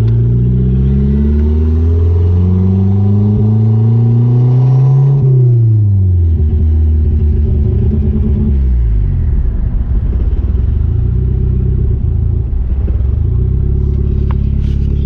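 Chrysler Conquest's turbocharged four-cylinder engine accelerating hard, its pitch climbing and dropping back at a couple of gear changes. About five seconds in it falls away as the throttle is lifted, and the engine then runs at lower, varying revs.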